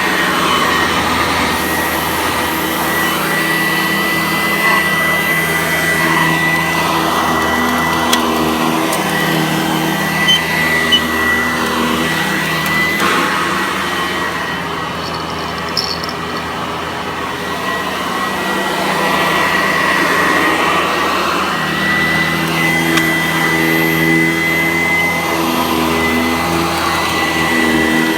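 Upright vacuum cleaner running steadily while vacuuming, its motor giving a constant high whine; it turns a little quieter for a few seconds midway and then comes back up.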